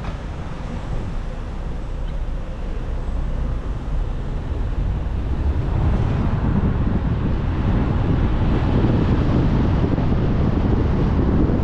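Car driving on a motorway: steady rush of tyre and wind noise, heaviest in the low end, growing louder from about halfway through.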